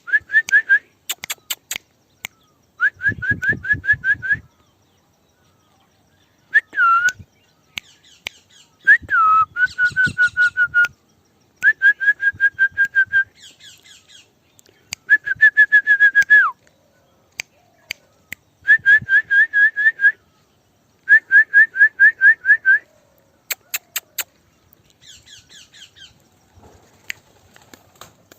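Repeated bursts of rapid high whistled notes, about five a second, each burst lasting a second or two, with a few sliding whistles and sharp clicks between them: calls used to bring a walking parrot along behind.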